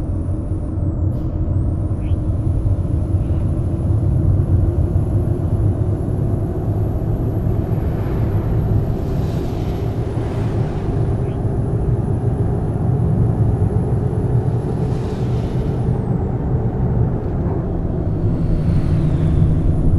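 Steady low rumble of a Scania K420 double-decker coach on the road, engine and road noise together. Three brief hissing swells rise over it, around the middle, near three quarters and near the end.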